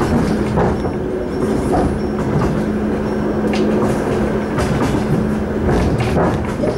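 Suburban train running at speed, heard from inside the carriage: a steady rumble of wheels on the rails, broken by irregular clicks. A steady low hum runs underneath and fades out about four and a half seconds in.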